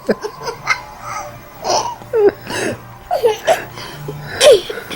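A small child laughing and giggling in several short, separate bursts, each with a high, falling pitch.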